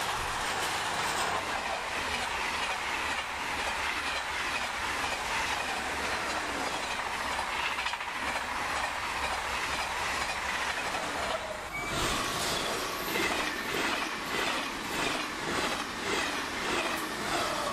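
Trains passing at speed. A freight train of tank wagons rolls by with a steady rush of wheels on rail. Then, after a sudden change about twelve seconds in, a TGV Duplex high-speed train rushes past with a regular clatter of wheels over the rails, about two beats a second.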